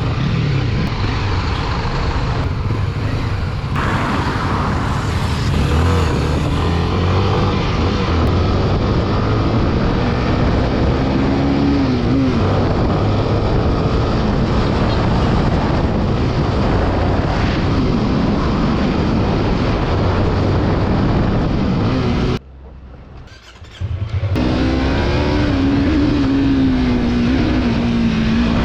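Motorcycle engine running on the road with wind rushing over the microphone; the engine note rises and falls with the revs. About 22 seconds in, the sound drops out sharply for about a second and a half, then returns.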